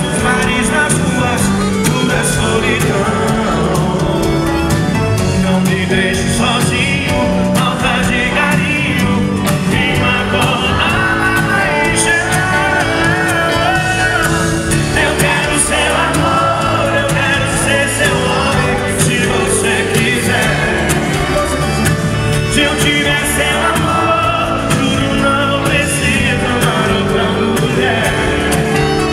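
Live sertanejo song: a band playing with sung vocals, continuous and loud.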